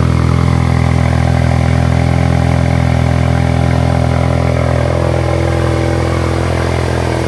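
Ford Mustang EcoBoost's turbocharged 2.3-litre four-cylinder idling steadily through a freshly fitted Flowmaster Outlaw axle-back exhaust, way louder than stock, with a strong low note. The tone shifts slightly about five seconds in.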